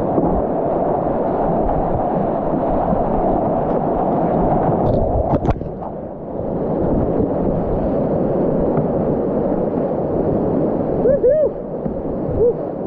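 River rapids rushing steadily as a kayak runs whitewater. There are a couple of sharp knocks about five seconds in, and a few short high calls near the end.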